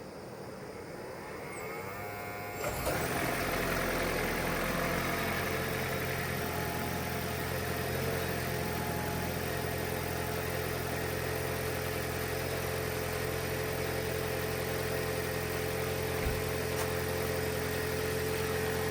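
Toyota Prius petrol engine starting up about three seconds in, on its first start after an oil change, then running steadily at idle. A slight rattle in its note is, by the owner's account, not the engine but the loose aluminium heat shield on the exhaust manifold, its rusted spring bolts broken.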